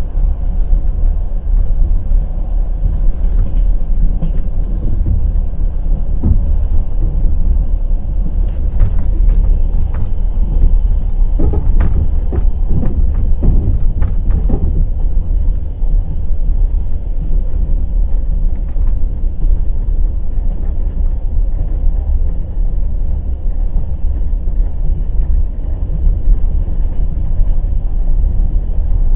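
Passenger train wheels running over the rails with a steady low rumble, and a run of sharp clacks from the wheels over rail joints or points about halfway through.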